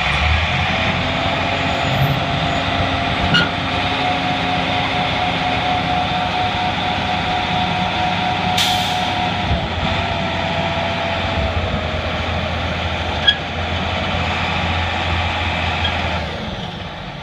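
Roll-off truck's engine running under load with a steady hydraulic whine as its hoist pulls the dumpster up onto the bed. There is a brief hiss about halfway, and the sound drops away near the end.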